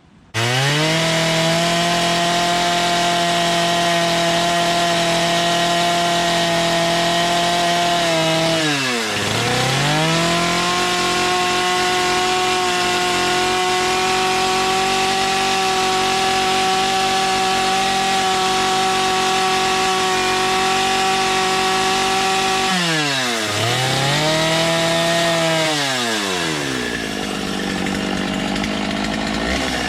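Chainsaw running at high revs while carving into a block of wood. It comes in abruptly. Twice it drops off throttle and revs back up, and near the end the revs sit lower and uneven.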